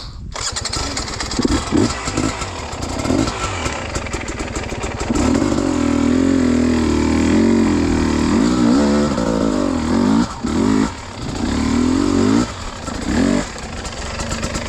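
Dirt bike engine revving up and down as the bike is ridden uphill, held on the throttle for several seconds, then a few short throttle blips near the end.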